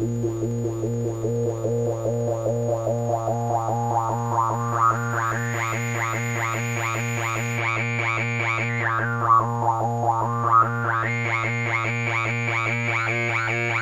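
DIY Weird Sound Generator synthesizer playing a buzzy low drone chopped into a rapid pulse. A bright resonant tone sweeps slowly upward, dips back down around the middle, then rises again.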